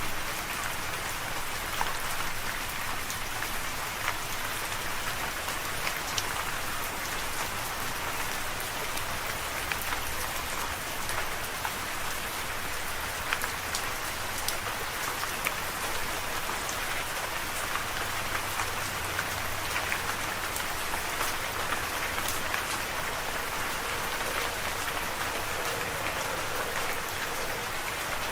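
Steady rain falling, an even hiss with many close, sharp drop impacts scattered throughout.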